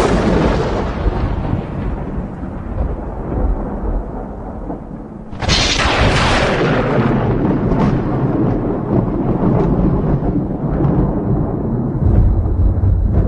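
Thunder: a crack rolling into a long low rumble, then a second sharp crack about five seconds in that rumbles on, with a deep swell near the end.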